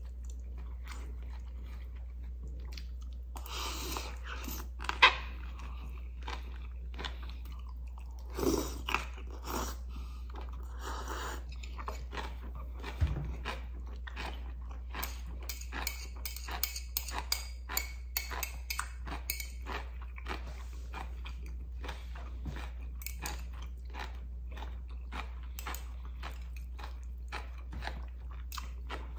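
Close-miked chewing of instant ramyeon noodles and crunchy kimchi: wet chewing with many short, crisp crunches and clicks, thickest about halfway through, and one sharp loud click about five seconds in.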